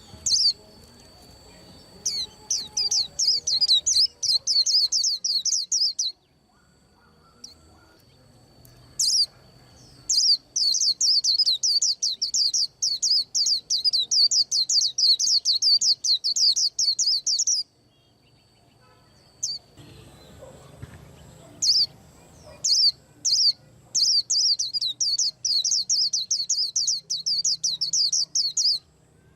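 A white-eye singing in three long bouts of rapid, high, repeated chirping notes, with short pauses between bouts and a thin steady high note under the first two.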